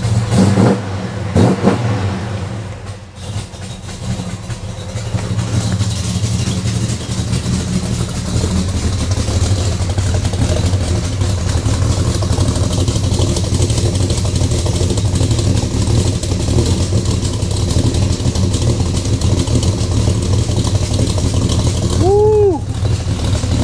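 Chevrolet Chevelle SS V8 idling just after a cold start with a rough, lumpy idle, which the owner calls "nasty". The lope comes from its Edelbrock .500-lift camshaft.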